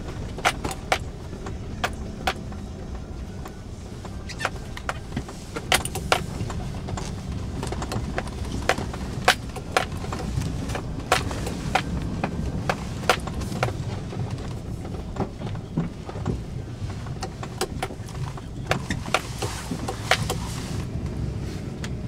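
A car driving slowly through deep snow: a steady low engine and road rumble, with frequent irregular sharp knocks and clicks as it jolts over the rough, snow-packed street.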